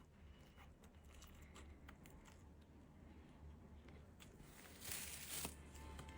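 Near silence with faint small clicks and a brief rustle about five seconds in.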